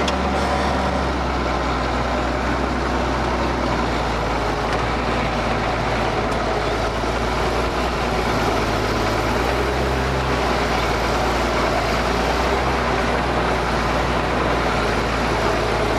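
Ford TW tractor's six-cylinder diesel engine running steadily as the tractor drives across the field.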